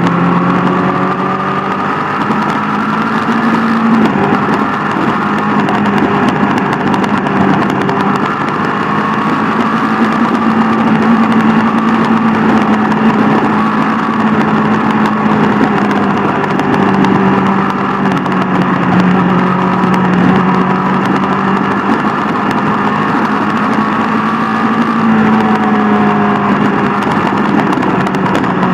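Sport motorcycle engine running at a steady cruising speed, its pitch drifting slightly up and down with the throttle, over a constant rush of noise.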